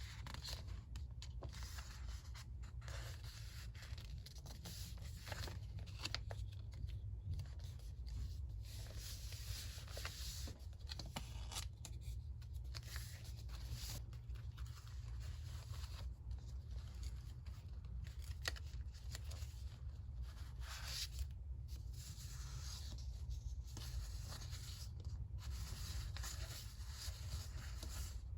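Close-up paper handling for a collage: irregular rustling and scratching strokes of paper with a few light clicks, over a steady low hum.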